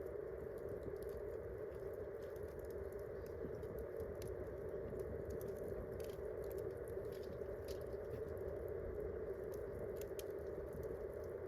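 Wood campfire crackling: irregular small pops and ticks over a steady rushing noise.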